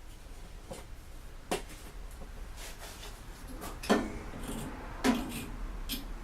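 Fire bricks and tools knocking and scraping as a brick is set in heat-resistant cement inside a gutted microwave oven. There are three sharp knocks, the last two the loudest, with lighter clicks and scraping between them.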